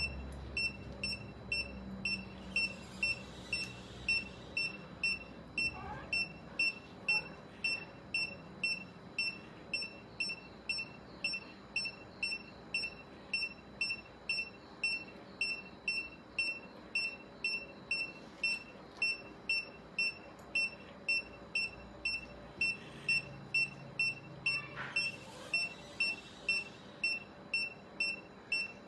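Patient monitor on a cat under anaesthesia beeping steadily, about one and a half short high beeps a second in time with the heartbeat.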